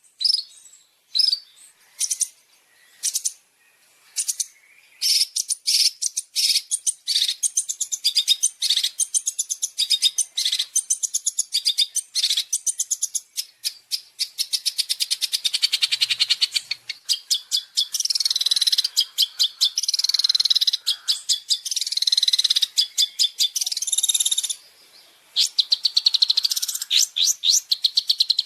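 Recorded song of a long-tailed shrike (cendet), all high-pitched notes: separate sharp calls at first, then dense fast trills and chattering phrases. There is a brief pause near the end.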